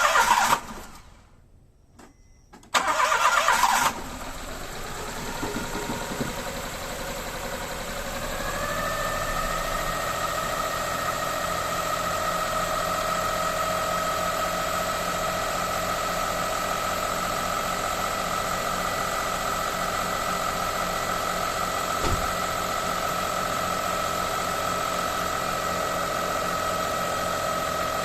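Daihatsu EF-DET 660 cc turbocharged three-cylinder engine cranked by its starter, catching on the second try about four seconds in and settling into a steady idle. A steady whine joins the idle a few seconds after it starts.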